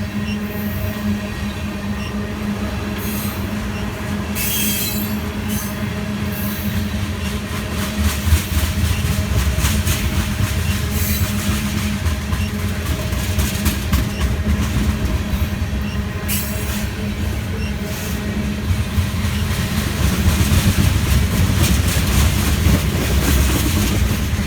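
Tank cars of a freight train rolling past, wheels clacking over the track with brief high wheel squeals as they take the siding, over a steady low rumble that grows louder near the end.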